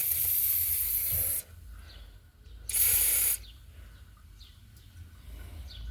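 Aerosol can of chain lube spraying in two bursts, a longer one of about a second and a half, then a shorter one about three seconds in, worked into a mower's seized blade-shaft bearing area.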